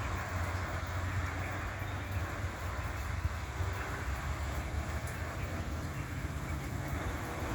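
Steady low vehicle rumble with an even hiss over it, without distinct events.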